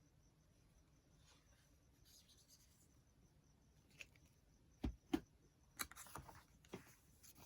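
Near silence, then a few light clicks and two knocks on a work surface followed by a short run of paper rustling and small clicks as craft materials are handled.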